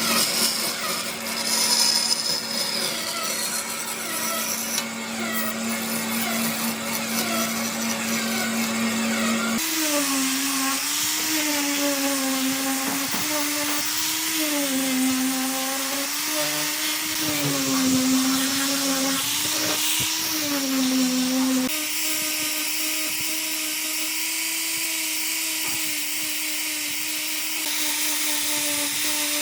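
Electric power tool's motor running, its pitch sagging and recovering again and again, as a tool does when it is pressed into work and eased off. The sound changes abruptly twice, about a third of the way in and again about two-thirds in.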